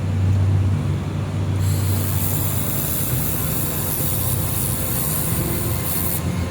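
Air-cooled handheld laser welder: the machine hums steadily, and about one and a half seconds in a steady high hiss starts from the welding torch as the trigger is held for a weld pass, cutting off shortly before the end.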